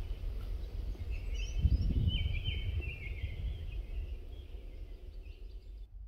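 Outdoor ambience: a steady low rumble that swells briefly just before two seconds in, with a small bird singing a thin, chirping phrase from about one to three and a half seconds in.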